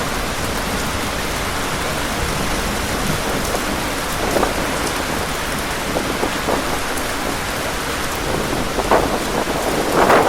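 Heavy rain pouring steadily, with several brief louder surges, the strongest near the end.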